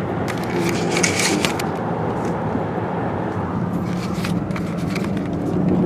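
Car driving, heard from inside the cabin: a steady low engine and road hum, with a scatter of light crackles and ticks in the first second or two.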